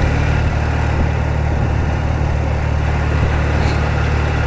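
BMW R80RT's air-cooled flat-twin engine running steadily, a constant low drone.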